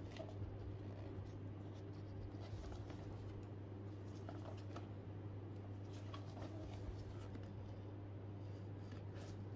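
Faint rustling and light taps of a cardboard product box being handled and turned in nitrile-gloved hands, over a steady low hum. Near the end a utility knife blade scrapes at the box to cut it open.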